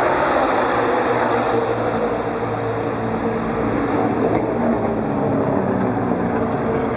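Loud, steady motor vehicle noise with engine tones, one of them falling in pitch near the start.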